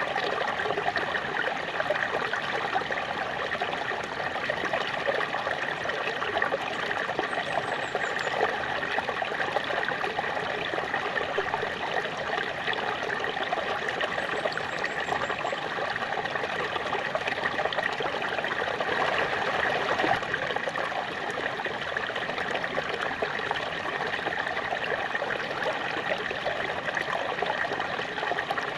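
Small waterfall: water falling and splashing in a steady, even rush with trickling, unchanging throughout.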